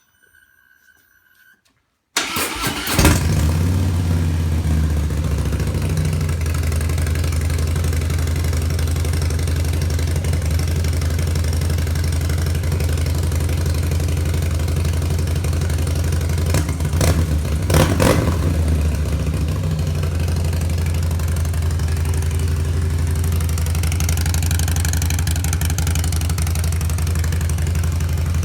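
After a short beep, a 2016 Harley-Davidson Breakout's V-twin with an Arlen Ness Magnaflow F-Bomb exhaust and Screamin Eagle Heavy Breather intake, tuned, starts about two seconds in with a quick rev and settles into a loud, lumpy idle. Twice, a little past halfway, the throttle is blipped before it drops back to idle.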